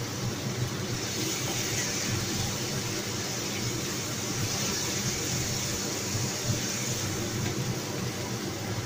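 Chicken and mushroom pieces frying in a wok over a gas burner with sauce just poured in, a steady sizzling hiss as they are stirred with a wooden spatula.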